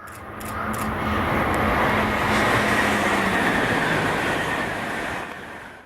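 A train running on rails: a rushing rolling noise with a faint steady hum that swells over about two seconds, holds, then cuts off abruptly.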